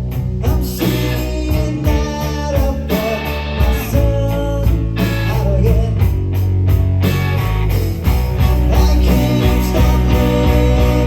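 Live rock band playing: electric guitar over bass and drums, with a steady drum beat throughout.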